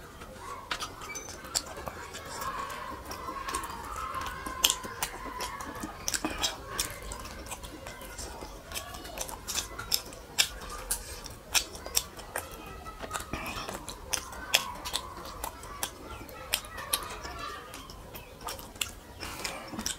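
Close-miked chewing of a mouthful of rice and curry: irregular wet mouth clicks and lip smacks, several a second.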